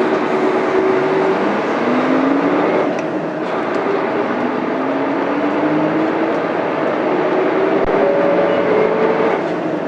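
Mitsubishi Fuso Aero Star bus's 6M70 diesel engine heard from inside the cabin, accelerating through the gears of its five-speed manual gearbox. The engine note rises in several steps, dropping back at each gear change.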